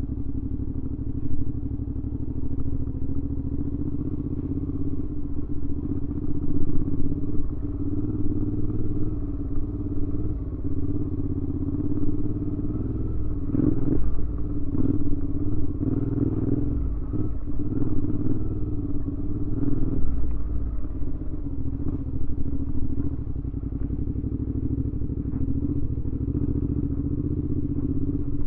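Suzuki V-Strom 650's V-twin engine running through a Delkevic aftermarket exhaust while the bike is ridden. The note stays steady for most of the time and rises and falls with the throttle around the middle.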